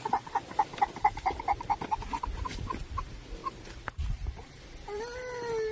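A rapid run of short animal calls, about seven a second, fading out over the first three seconds, then one long held call near the end.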